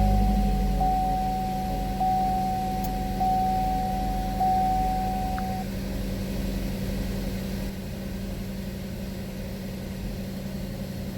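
Buick Verano's four-cylinder engine just started and idling after new camshaft position actuator solenoids were fitted, settling down from a fast cold-start idle and growing gradually quieter. Over the first half a dashboard warning chime rings about five times, roughly once every second and a bit.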